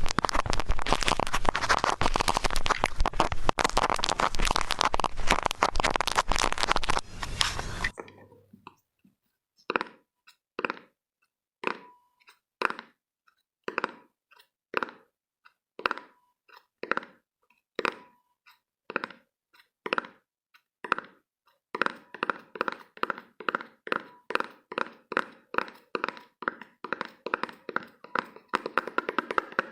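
Close-miked ASMR triggers: dense crackling for about eight seconds, then stops; slow single taps about one a second follow, each with a slight ring, and after about twenty-two seconds faster, even tapping about three a second.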